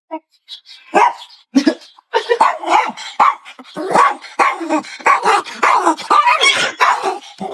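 Dog barking: two single barks, then from about two seconds in a fast, unbroken run of barking.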